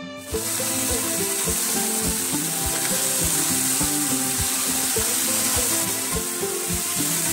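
Water spinach and garlic stir-frying in hot oil over high heat, with a steady sizzle as the greens are tossed with chopsticks. Background music with a steady beat plays underneath.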